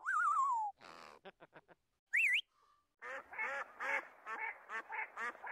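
A short, loud descending, wavering call opens, followed by a few quick clicks. From about three seconds in, waterfowl call in a run of short, rapid honks, two or three a second.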